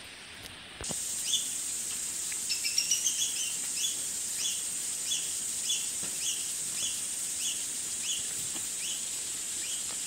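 A bird repeating a short rising chirp about every half second, with a quicker run of chirps two to three seconds in, over a steady high hiss of forest background. The sound starts abruptly about a second in.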